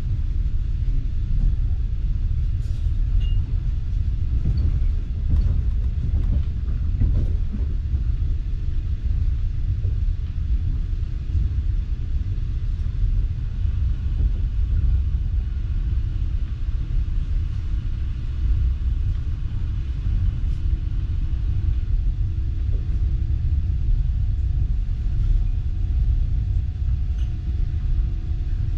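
Passenger train coach running along the track, heard from inside the carriage: a steady low rumble. A faint steady hum comes in about halfway through.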